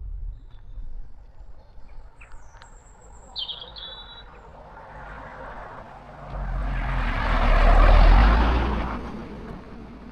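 A road vehicle passing by: its noise swells to a peak about eight seconds in, then fades away. A few short bird chirps come before it.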